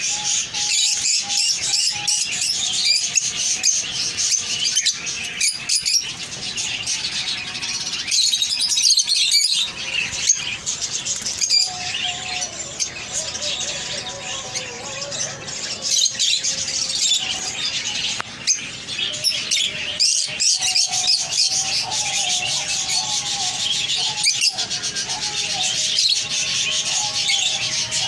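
A flock of cage birds chirping and twittering without pause, a dense mix of high calls from many birds.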